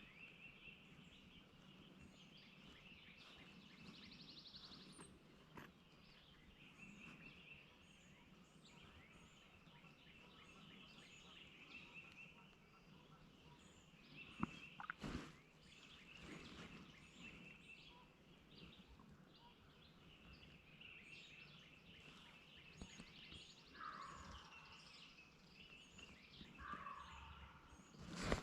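Faint woodland birdsong: many small songbirds chirping and a buzzy trill twice. Near the end come two distant wild turkey gobbles, each about a second long. A couple of sharp knocks sound about halfway through.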